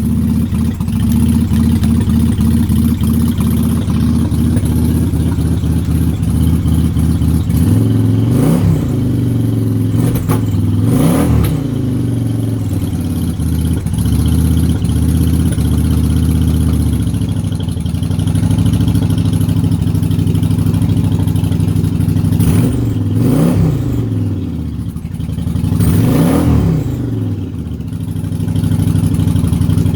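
2004 Yamaha V-Star 1100's air-cooled V-twin idling while still warming up from a cold start, with the throttle blipped four times, the pitch rising and falling each time.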